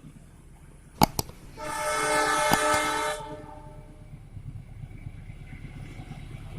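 Train horn sounding one blast of about a second and a half, just after two sharp knocks. A low rumble builds toward the end as a train approaches.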